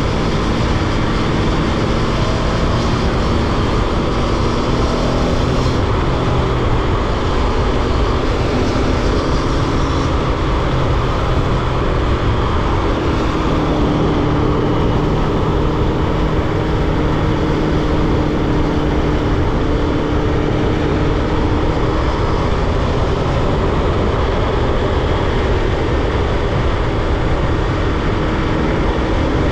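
Aprilia Tuono V4 motorcycle's V4 engine running under way at fairly steady revs, with heavy wind rush over the microphone. The engine note rises slightly about halfway through.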